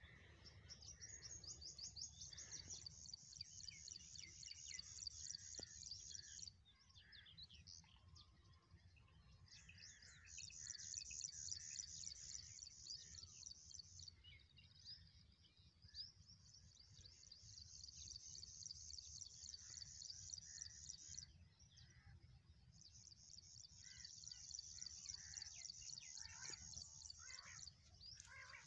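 Bird song: a high, very rapid trill repeated in four bouts of about five seconds each, with short gaps and softer chirps between them, over a low rumble of wind.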